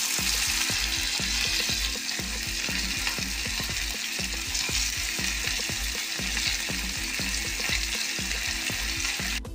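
Masala-coated anchovies frying in hot oil in a frying pan, a steady sizzle that cuts off suddenly near the end.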